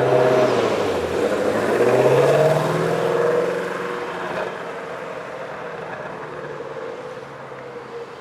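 A 2020 Shelby GT350's 5.2-litre flat-plane-crank V8 accelerating: the engine note climbs for a couple of seconds, then eases back to a steady lower drone that slowly gets quieter.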